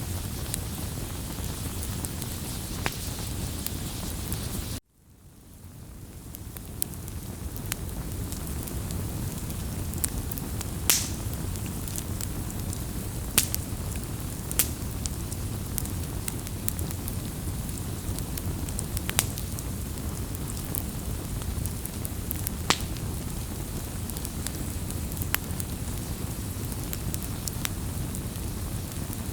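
Wood campfire burning with a steady low rush of flame and scattered sharp crackles and pops. The sound cuts out abruptly about five seconds in and fades back up over the next couple of seconds.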